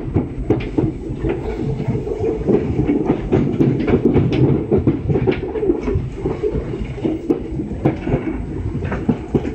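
Kintetsu 6020 series electric train running, heard from inside the driver's cab. A steady low rumble carries many irregular clicks, knocks and rattles from the wheels on the track and the cab fittings.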